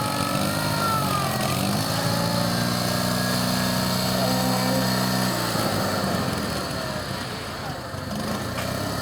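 Garden tractor engine running steadily; its low, even note drops away a little past halfway.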